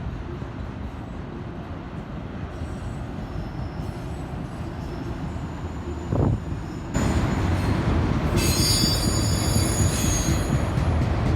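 BNSF autorack freight train rolling past with a steady rumble that grows abruptly louder about two-thirds of the way in. Its steel wheels squeal high-pitched against the rail for about two seconds near the end.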